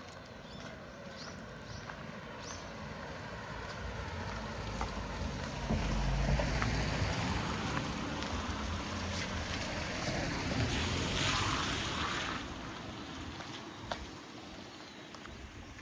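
An engine passing by: it grows louder over the first several seconds, stays loudest for about six seconds, then fades away.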